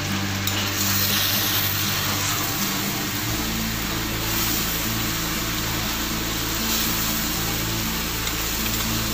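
Chicken and dried maslang khar flowers frying in a metal pan with a steady sizzle while a spatula stirs them. The pan has cooked down almost dry in the chicken's own oil.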